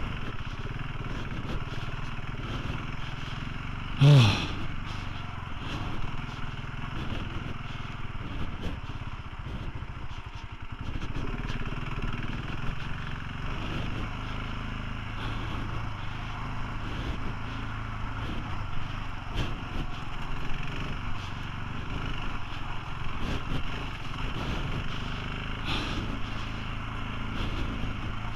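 Motorcycle engine running steadily while riding, with wind and road noise. There is a brief loud sound about four seconds in.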